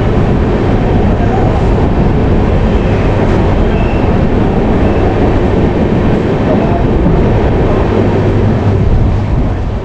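Passenger train in motion: a steady, loud rumble of wheels running on the rails.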